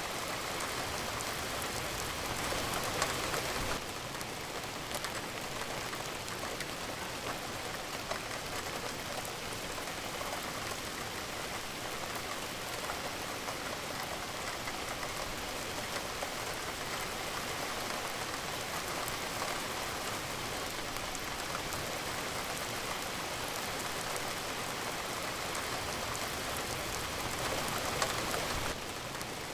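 Steady rain falling: an even hiss with scattered fine drop ticks. It steps slightly quieter about four seconds in.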